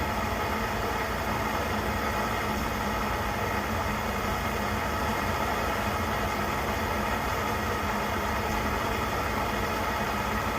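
Coleman 530 G.I. pocket stove's pressurised burner running at full flame, a steady rushing hiss that is huffing and puffing now. The stove has just been lit and is warming up.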